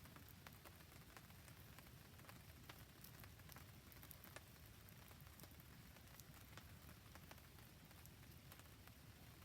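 Faint rain falling together with a wood campfire crackling: an even hiss with scattered sharp ticks and pops throughout.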